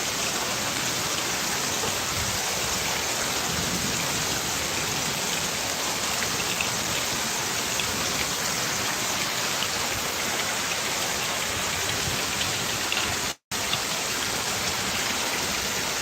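Steady hiss of heavy rain falling, with a brief cut to silence about thirteen seconds in.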